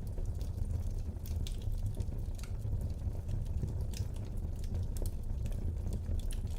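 Wood fire burning in a fireplace, crackling with irregular small pops over a steady low rumble.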